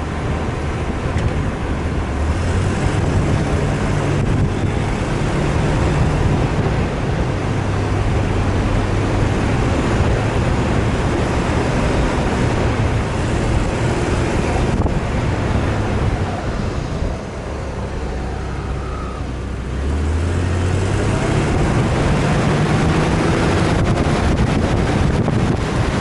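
Off-road vehicle engine running under load, its pitch rising and falling as it is revved, with a steady rush of wind noise over it. The engine eases off about two-thirds of the way in, then revs up again.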